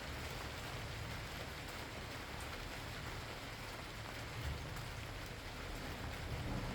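Steady rain falling, an even hiss of drops, with a low rumble underneath.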